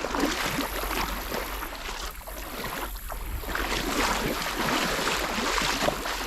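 Irregular splashing and sloshing of shallow river water, with wind on the microphone.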